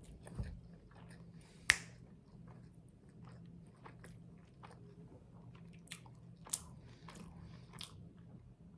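Close-miked chewing and biting: soft wet mouth clicks and small crunches of food being eaten, with one sharper click a couple of seconds in.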